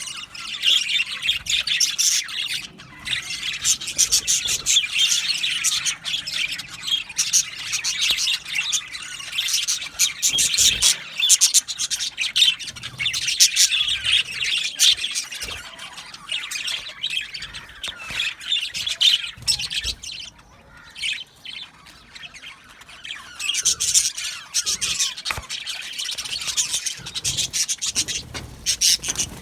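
A flock of budgerigars chirping, warbling and squawking together in busy, overlapping chatter that eases off for a few seconds past the middle before building up again.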